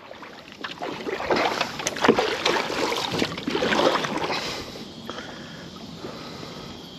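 Water splashing and sloshing around a kayak, with a few sharp knocks, easing into a softer steady wash after about four seconds.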